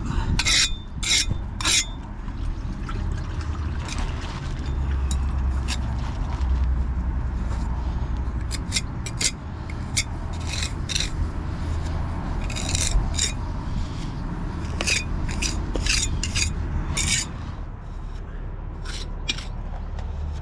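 Steel pointing iron and trowel scraping and rubbing wet mortar into the joints of engineering bricks, in short, irregular strokes over a steady low rumble.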